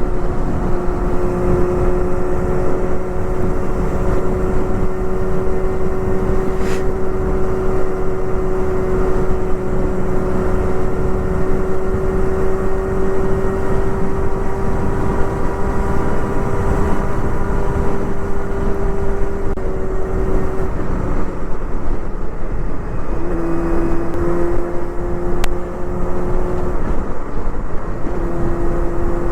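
Honda Hornet 250's inline-four engine with a Pretty Racing aftermarket exhaust, running at high, steady revs under way, over a rush of wind noise. About 20 seconds in the engine note drops a little, then settles slightly lower.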